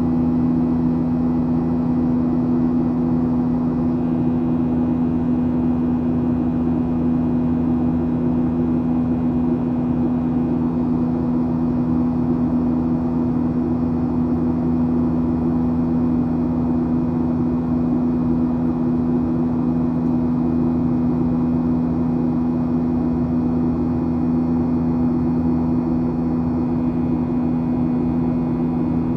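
Cabin noise of a Boeing 737-800 in flight: a steady airflow rush with the constant low hum of its CFM56 turbofan engines, unchanging throughout.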